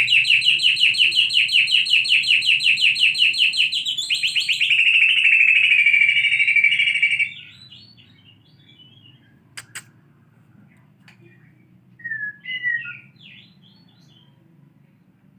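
Songbird singing canary-style rolled trills: a fast, even run of repeated notes that switches to a quicker, buzzier roll about four seconds in and stops about halfway through. After it come only a few faint short notes.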